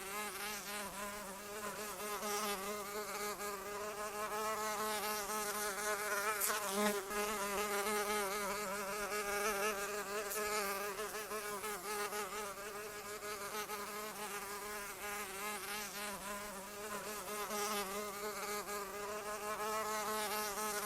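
A fly buzzing continuously in flight, its drone wavering slightly up and down in pitch.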